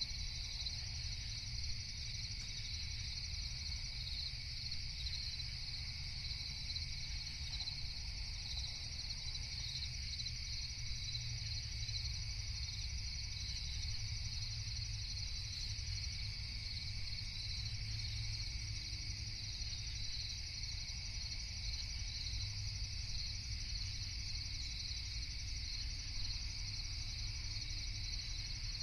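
Night chorus of crickets trilling steadily and without a break, over a constant low rumble.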